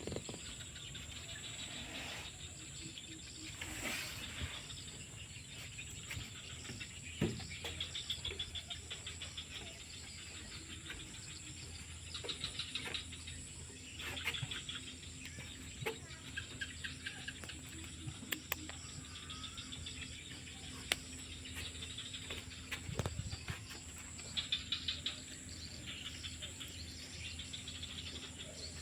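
Crickets chirping in short, rapid trilled bursts, over a steady high-pitched insect drone and a low background hum, with a few scattered clicks.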